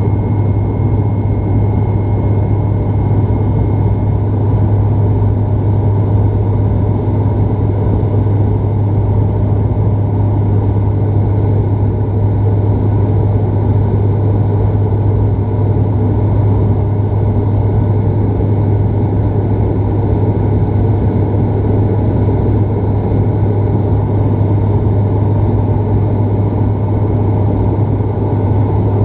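Cabin noise of a Bombardier Dash 8 Q400 turboprop: a loud, steady propeller drone with a strong low hum and a dense rumble beneath.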